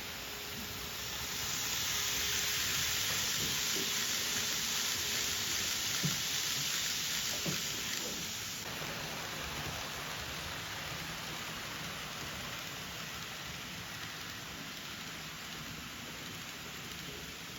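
N-gauge model train running on the layout track, a steady hissing rush that swells about a second and a half in and drops back sharply about eight and a half seconds in, with a couple of faint clicks.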